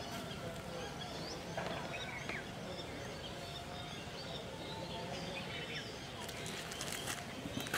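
Outdoor ambience: small birds chirping on and off over a steady background hiss, with a few faint clicks near the end.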